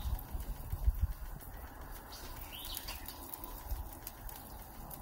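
A bird chirping in short rising calls, the clearest about two seconds in, over faint background noise, with a few low thumps in the first second.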